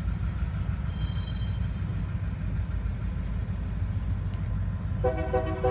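Diesel locomotive moving slowly past, its engine rumbling steadily. A steady pitched tone starts abruptly near the end.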